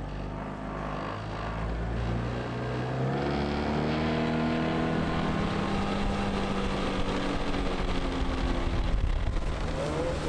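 Outboard boat motor running up in pitch as it accelerates, then holding a steady speed.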